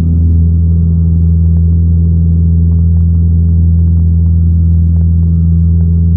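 Cessna 172's piston engine and propeller droning steadily inside the cockpit, a loud, even low hum with no change in power.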